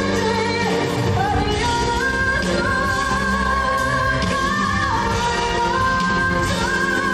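A female pop singer's powerful voice over band accompaniment in a ballad, holding long, sustained high notes that step from one pitch to the next.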